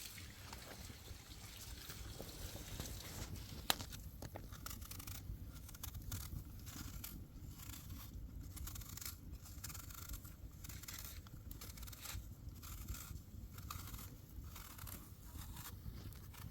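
Repeated scraping or scrubbing strokes, roughly one a second, with a single sharp click about four seconds in.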